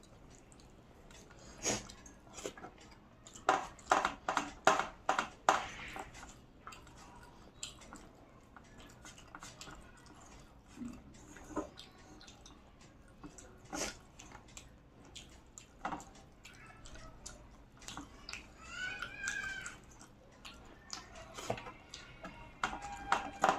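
A person chewing and eating, with scattered sharp clicks and a quick run of them around four seconds in.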